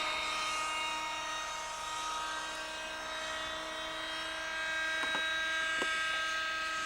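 Schlüter Magic radio-controlled model helicopter in flight, its two-stroke glow engine and rotors giving a steady high whine with many tones, dipping slightly in level midway. Two faint clicks come near the end.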